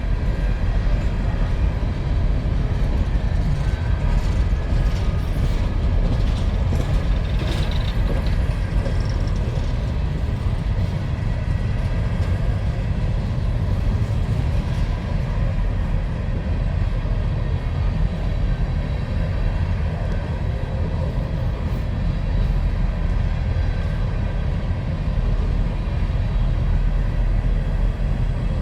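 Freight train of empty mine cars rolling past, a steady low rumble of wheels on rails, with a few faint clicks and a brief high squeal about four to nine seconds in.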